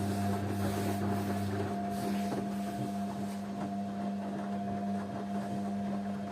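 Washing machine running: a steady motor hum with a thin whine above it. The deepest part of the hum drops out about two seconds in.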